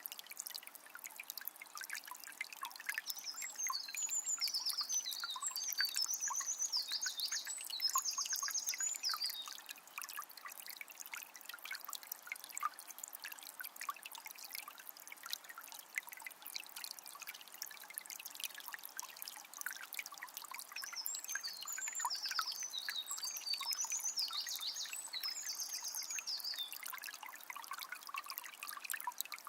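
Water of a small spring trickling and splashing steadily. A small songbird sings two high, rapid phrases of chirps, one a few seconds in and another about two-thirds of the way through.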